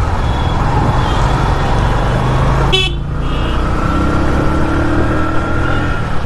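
Motorcycle engine running steadily in dense road traffic, with vehicle horns tooting in short blasts, the sharpest a little before halfway.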